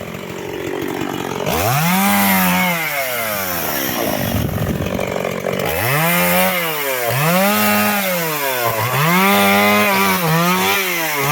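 Chainsaw cutting firewood logs, its engine revving up and dropping back several times in a row as each cut is made.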